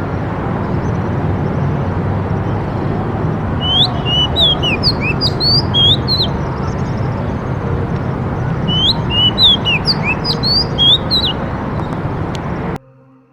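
A small bird calling: two bouts of quick, high, sweeping chirps over a steady background noise. The sound cuts off suddenly near the end.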